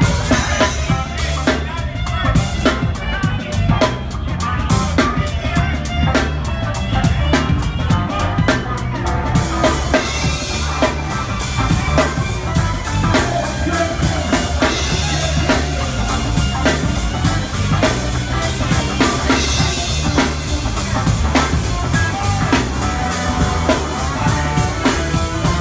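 Live rock band playing with the drum kit close and prominent: a steady beat on kick drum and snare under bass and guitar. From about ten seconds in, the cymbals wash more continuously.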